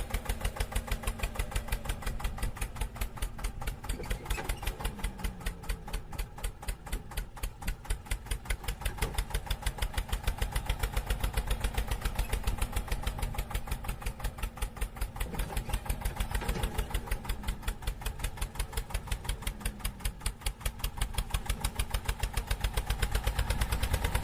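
Tractor-style engine running with a steady, rapid chugging beat of several beats a second.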